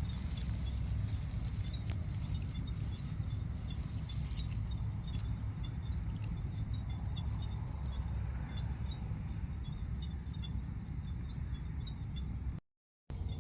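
Insects trilling steadily in a high, rapidly pulsing chorus over a continuous low rumble. The sound cuts out completely for about half a second near the end.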